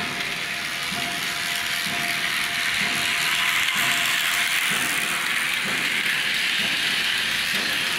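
Work train hauling a ballast hopper car rolling slowly past: a steady hiss of steel wheels on rail that swells about three seconds in, with a low clack roughly once a second as the wheels cross rail joints, over a faint steady whine.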